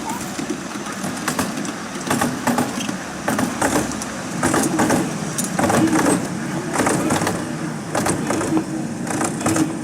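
Large-scale model train running, its wheels clicking over the rail joints in quick groups of clicks, over a steady hum.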